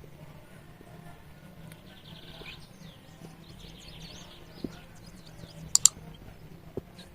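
Small birds chirping and twittering, with quick trills and gliding calls through the middle. Two sharp clicks come close together about six seconds in, the loudest sounds here.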